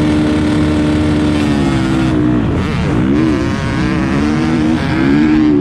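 Motocross bike engine being ridden: it runs steadily, then from about a second and a half in the revs rise and fall repeatedly as the throttle is worked.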